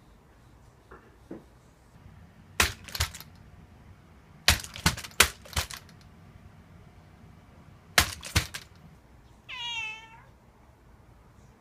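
Three quick clusters of sharp plastic clicks and taps as a cat swats at a vacuum cleaner's crevice nozzle, then a single short, slightly falling meow near the end. The vacuum is not running.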